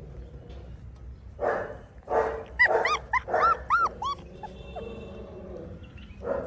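Dogs barking: two barks, then a quick run of high-pitched yelps, then another bark near the end.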